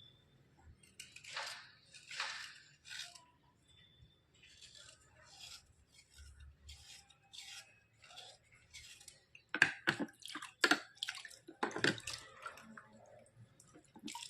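Wet scraping: a run of short separate scrapes with dripping water, the strokes coming louder and sharper for a few seconds in the second half.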